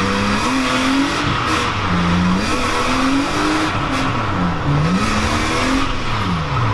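Drift car's engine in third gear, revving up and dropping back several times as the throttle is worked through a slide, with tyres skidding on the wet surface, heard from inside the cabin.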